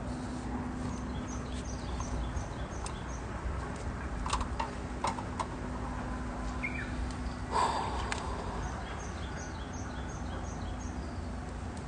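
Wood fire crackling with scattered sharp pops, one louder about two thirds of the way through. A bird calls in runs of short high notes near the start and again near the end.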